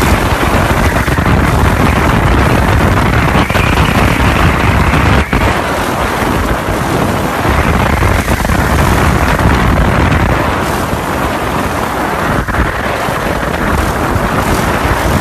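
Loud, steady rushing wind noise on a camera microphone moving at speed, with a couple of sharp knocks about five seconds in and near twelve seconds in.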